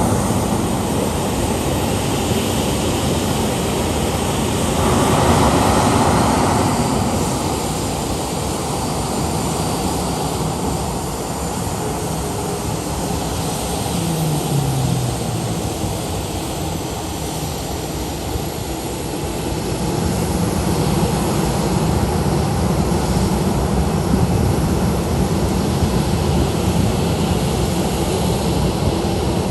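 Airliner engines running on a rain-soaked runway under the steady hiss of heavy rain. The engine sound swells about five seconds in and grows louder again for the last third, with a brief falling tone midway.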